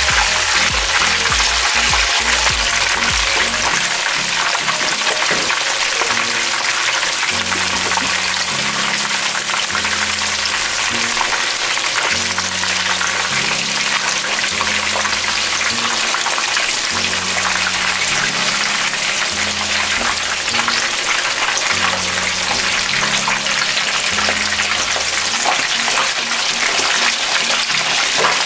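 Chicken pieces deep-frying in hot oil, a steady sizzle of bubbling oil. Background music with a repeating low bass line comes in about four seconds in.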